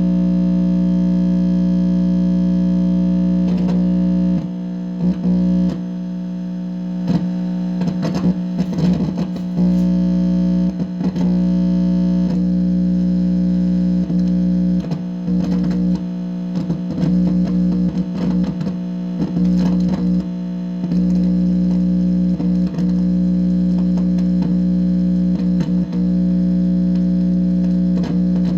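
Steady, loud electrical buzz from an amplifier speaker, a low hum with a stack of overtones. From about four seconds in until about twenty-one seconds it is broken by irregular crackles and short chirping sweeps. The owner takes these for a directed-energy attack picked up by his receiving equipment.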